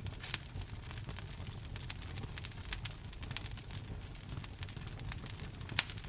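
Wood fire crackling in a fireplace: frequent short snaps and pops over a low, steady rumble of the burning, with one louder pop near the end.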